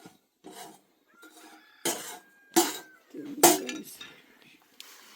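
Metal cooking pots and utensils knocking and clinking, about five sharp knocks, the loudest about three and a half seconds in, one leaving a short metallic ring.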